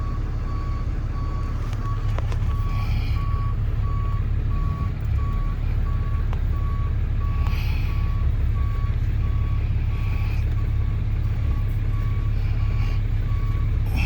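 Tow truck's reversing alarm beeping steadily, one even tone repeated over and over, over the low steady running of the truck's engine as it backs up while stuck.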